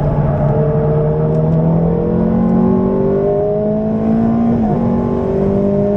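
Ferrari F430's 4.3-litre V8 pulling hard on track, heard from inside the cabin, its pitch slowly climbing. About three-quarters of the way through the pitch dips briefly, as at a gear change, and then keeps climbing.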